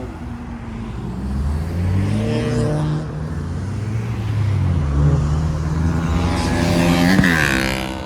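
Car engines accelerating as they drive past, the pitch rising and falling through the gears. One car passes close near the end, its engine pitch climbing and then dropping sharply as it goes by.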